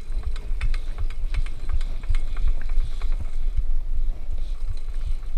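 Wind rumbling on the microphone, with scattered light clicks and ticks throughout.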